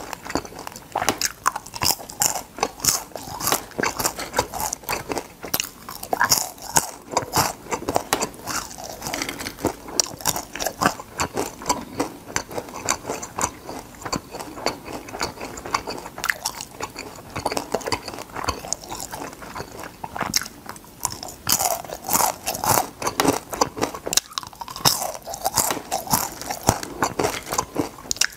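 A person biting and chewing crispy deep-fried flower crab pieces, a steady run of sharp crunches.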